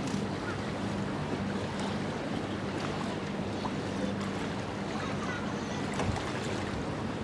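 Ship under way: a steady low machinery hum over wind and water noise.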